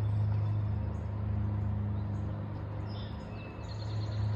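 A steady low hum, like a distant engine running, with small birds chirping in short high calls over it.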